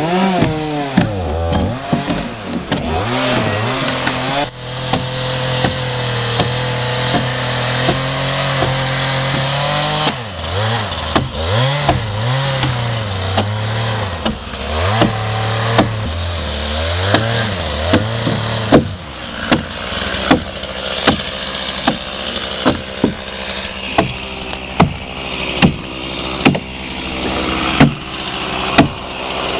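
Chainsaw cutting into a large cedar log, its engine revving up and down and holding at full throttle for several seconds. From about two-thirds of the way through, sharp knocks come about once a second over the quieter running engine.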